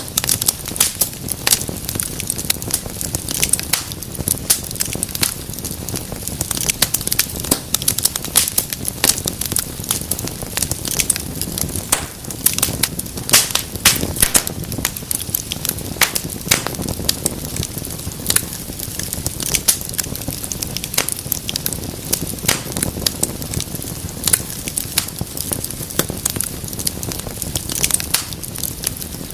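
Wood fire burning in a fireplace, crackling and popping irregularly and densely over a steady low rumble of the flames.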